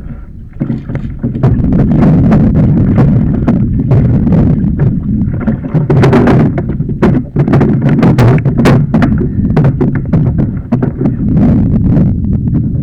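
Sea kayak on the water: loud, continuous low sloshing and buffeting noise, with many knocks and clicks against the hull throughout.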